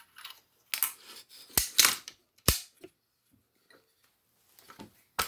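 Sharp metallic clicks and knocks of a sized .308 brass case being put into the chamber of an AR-type rifle upper and its bolt carrier group handled: about half a dozen separate clicks with quiet gaps, the loudest around two seconds in.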